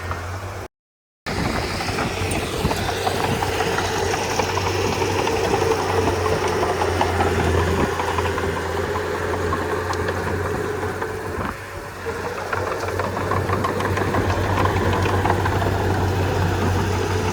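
Komatsu D31P crawler bulldozer's diesel engine running steadily under working load, with a dense metallic rattle over a constant low hum. The audio drops out completely for about half a second near the start.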